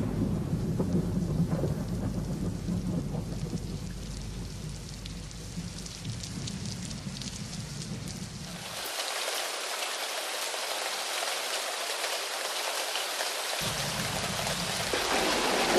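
Rolling thunder with rain, the low rumble easing off over several seconds. About halfway through, heavy rain takes over as a steady hiss, which grows heavier and louder near the end.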